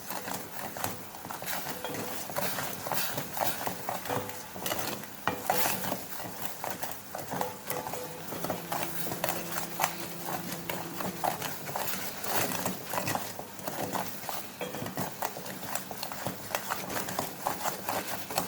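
A utensil stirring melting sugar syrup in a pan, with repeated irregular scrapes and clicks against the pan as the sugar starts to caramelize.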